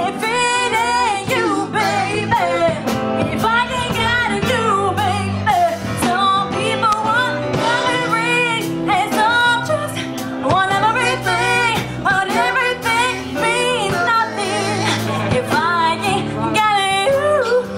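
A live band playing a song, with a lead vocalist singing long, wavering phrases over the band and a steady drum beat.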